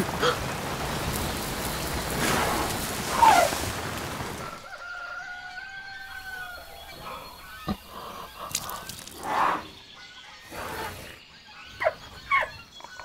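Rain falling steadily, cutting off about four and a half seconds in; then a quieter stretch with chickens clucking in short, separate calls.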